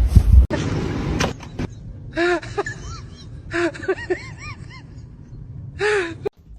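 A cat making a string of short meows and chirps, each rising and falling in pitch, in small groups, then one longer meow near the end. A brief loud low rumble from the previous clip cuts off about half a second in.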